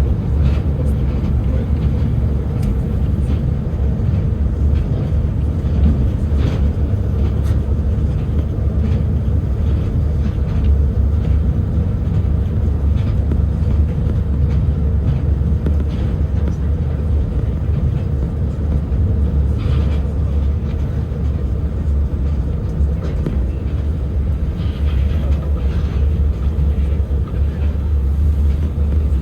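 Moscow Monorail train running between stations, heard from inside the car: a steady low rumble with a faint hum and occasional light clicks.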